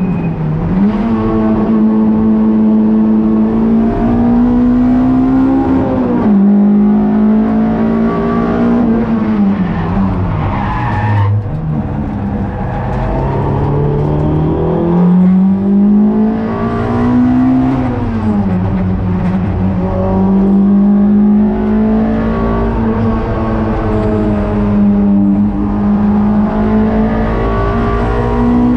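Toyota Sprinter Trueno race car's engine driven hard on track: the pitch climbs with the revs and drops at each gear change. There is a deep drop about eleven seconds in as the car slows, and then it climbs again.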